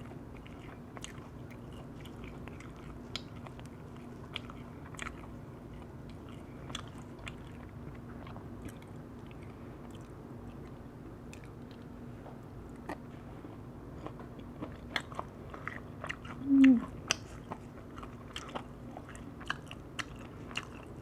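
Close-up chewing and biting of crisp wood-fired roast chicken, with scattered small crunches and mouth clicks over a steady low hum. About two-thirds of the way through there is a brief vocal sound from the eater.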